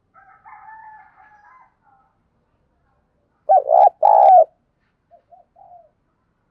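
Spotted dove cooing. It starts with soft, quiet coos, gives one loud two-part coo about three and a half seconds in, then a few soft short notes. It is a trained decoy dove in vigorous call, the kind used to provoke wild doves.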